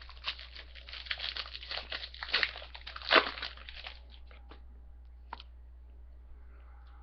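Foil trading-card pack wrapper crinkling and being torn open, with the loudest rip a little after three seconds in; the crinkling stops about four seconds in.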